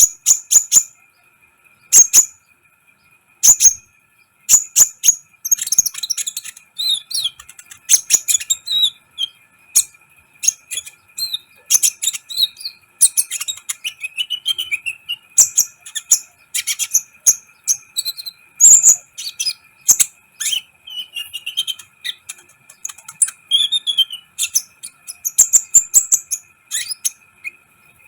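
Kolibri ninja sunbird singing in form: rapid, sharp, high chirps and short twittering phrases in quick bursts, with a faint steady high hum underneath.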